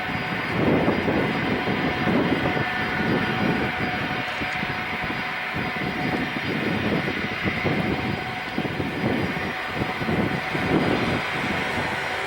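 Four-engine heavy jet airliner's engines at takeoff power: a loud, continuous jet roar with a rough, fluttering low rumble and a steady whine above it.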